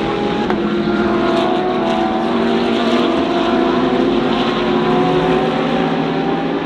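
Several GT3 race car engines running at high revs together, their pitches drifting slightly up and down.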